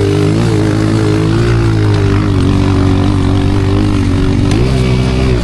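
Pit bike's single-cylinder four-stroke engine running hard while ridden on a dirt track, its revs held fairly steady with a few brief dips and rises, including a rise near the end.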